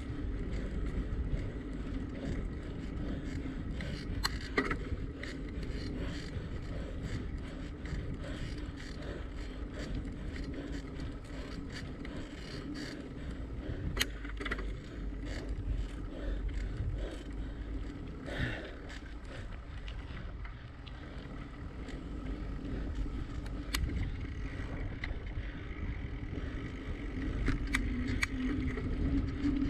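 Bicycle being ridden, heard from a camera mounted on it: steady low wind rumble on the microphone and tyre noise, with scattered short clicks and rattles from the bike.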